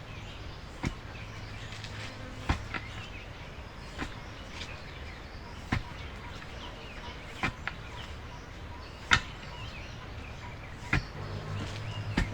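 A hoe striking into soil over and over, one sharp chop every one to two seconds, as earth is heaped into planting ridges. Birds and insects chirp faintly in the background.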